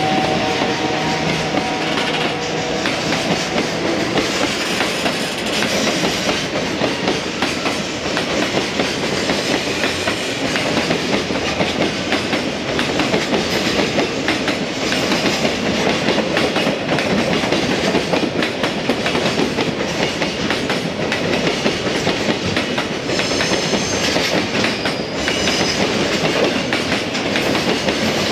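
Container flat wagons of a freight train rolling past close by, their wheels clattering steadily over the rail joints. A brief high squeal comes in near the end.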